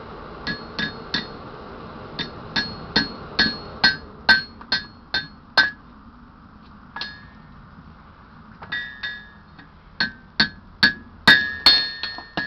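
Hammer blows on hot steel at the anvil, each strike ringing with a clear metallic tone. The blows come in runs of a few strikes, about three a second, with a pause about six seconds in and a faster, louder run near the end.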